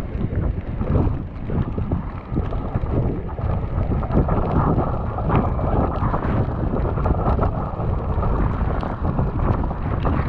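Wind buffeting a GoPro's microphone on a moving e-bike, heard as a steady loud rumble dotted with many short crackles.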